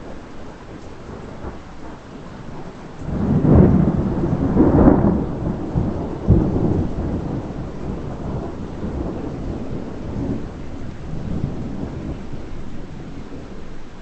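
Thunder from a lightning strike, over steady rain. It breaks in suddenly about three seconds in with several heavy crashes, then rolls on as a long, steady rumble that slowly fades.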